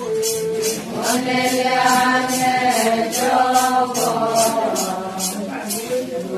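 Ponung chant: voices singing long, slowly gliding held notes together, with a rhythmic high jingle about two or three times a second.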